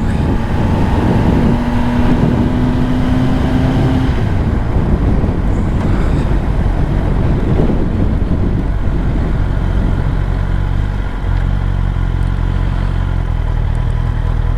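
Kawasaki ZX10R's inline-four engine running under way, mixed with wind and road noise. A steady tone holds for a couple of seconds early on, and from about eleven seconds in the engine settles into a steadier low note.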